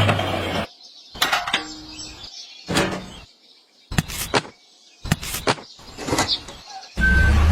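A vehicle engine drones briefly and cuts off. A series of about eight irregular sharp knocks and clicks follows, some with a short ring. Near the end a vehicle engine comes back in with steady reversing beeps.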